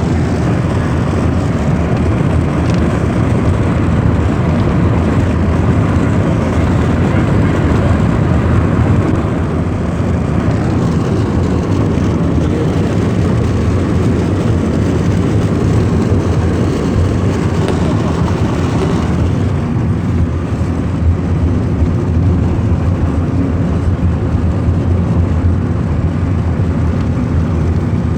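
Steady road and engine noise of a Lada Kalina 2 station wagon on the move, mostly a heavy low rumble.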